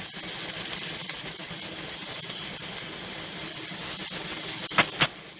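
Chicken searing in a hot grill pan with oil, a steady sizzle. Two sharp clicks sound close together near the end.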